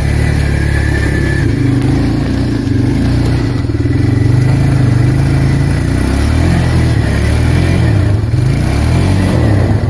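Arctic Cat 366 ATV's single-cylinder four-stroke engine running under load, its pitch rising and falling with the throttle.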